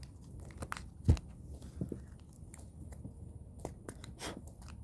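Oracle cards being handled and shuffled by hand: scattered soft clicks and card rustles, with one loud thump about a second in.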